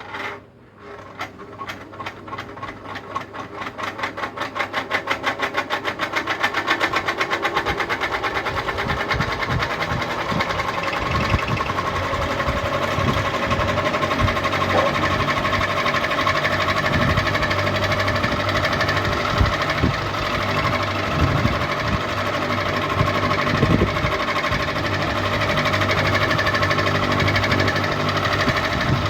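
Ceiling fan switched on with a sharp click, its motor and blades spinning up in a rapid pulsing that quickens and grows louder over several seconds, then running steadily.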